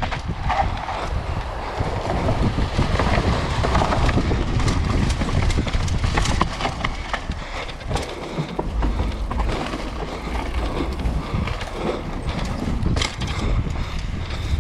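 Mountain bike ridden down a rough trail, with wind rumbling on the action camera's microphone and a constant rattle and clatter of knocks from the bike over rough ground.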